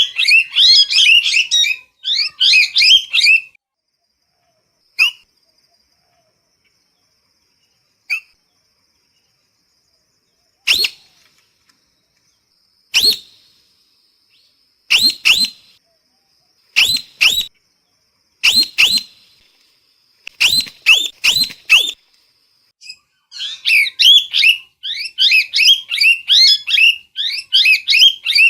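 Parrot calling: a rapid run of shrill chirps at the start, then single sharp calls spaced a few seconds apart, some in pairs or threes, and a fast chattering run again from near the end.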